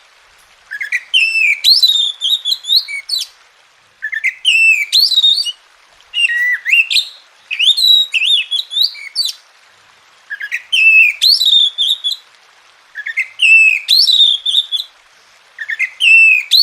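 Oriental magpie-robin (kacer) singing: a string of varied whistled phrases full of sweeping, slurred notes, each a second or two long, with short pauses between them.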